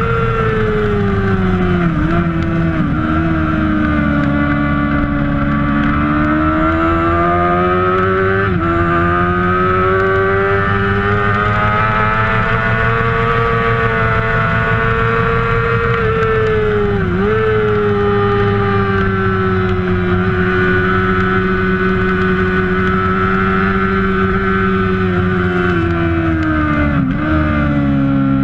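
Kawasaki ZX-6R racing motorcycle's inline-four engine at high revs under race load. Its pitch climbs and falls with speed, broken by about five brief sharp dips at quick gear changes, the first two close together a couple of seconds in and the last near the end.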